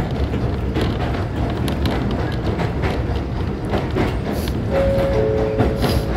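Kōnan Railway Ōwani Line electric train running, heard from inside the carriage: a steady rumble of wheels on track with frequent clicks and knocks. Near the end two brief steady tones sound, one higher than the other.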